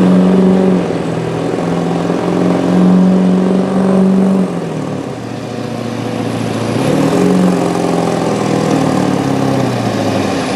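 Pulling truck's engine running hard at high revs, then falling off about four and a half seconds in, revving up again around seven seconds and dropping once more near the end.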